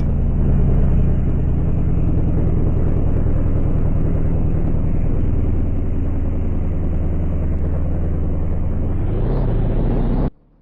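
A vehicle's engine and road noise running steadily. The pitch rises briefly near the end, then the sound cuts off abruptly.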